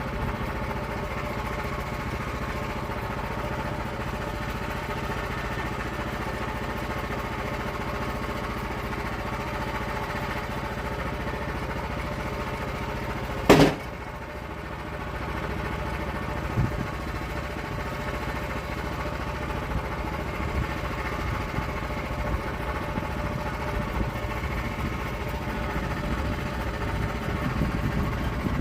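Small engine of a log mill running steadily while milling oak. There is a single sharp knock about halfway through, after which the engine runs a little quieter for a moment before picking back up.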